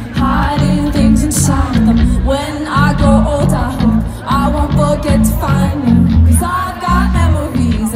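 Live pop band playing with a woman singing the lead over a pulsing bass line.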